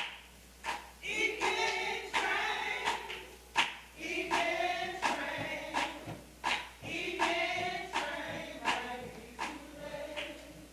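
A group of voices singing a gospel song, with a sharp regular beat about twice a second.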